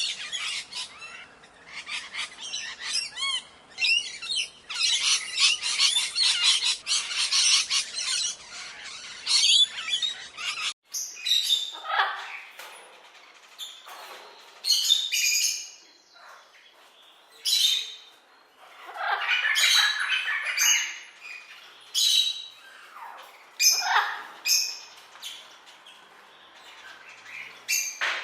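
Bird calls: dense chirping and squawking, then after an abrupt change about eleven seconds in, separate loud squawks and calls with short gaps between them.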